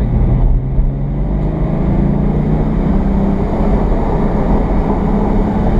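Porsche 718 Cayman GT4's 4.0-litre flat-six engine heard from inside the cabin while driving, under steady light throttle with road noise. The engine note rises slightly in pitch about a second and a half in, then holds steady.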